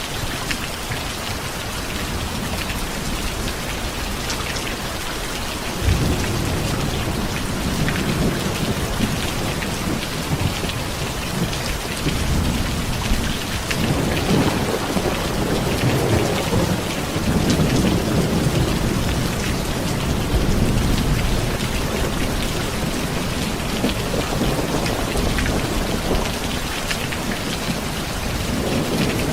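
Steady rain with thunder: a sudden low crack about six seconds in, then rolling rumbles that swell and fade several times through the middle.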